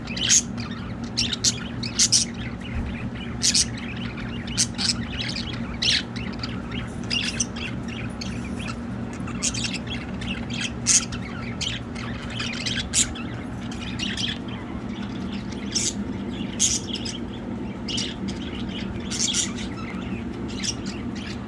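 A flock of budgerigars chattering, with frequent sharp squawks and short chirps coming irregularly, several a second at times. A steady low hum runs underneath.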